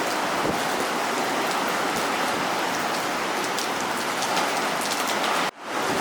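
Steady, dense hiss of heavy rain and typhoon surf, broken by a sudden brief dropout near the end.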